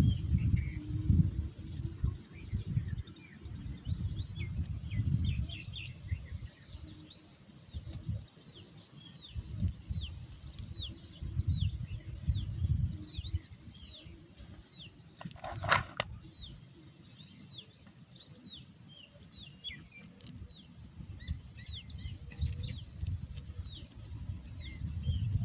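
Many small birds chirping continuously in short, quick downward-sweeping calls, over an uneven low rumble. A brief louder noise stands out about two-thirds of the way through.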